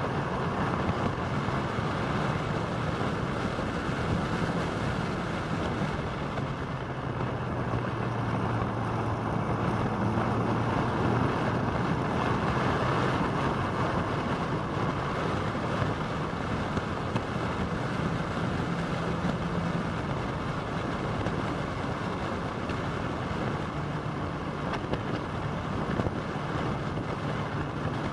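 Motorcycle riding at road speed: a steady rush of wind over the microphone, with the engine's low note underneath shifting in pitch now and then.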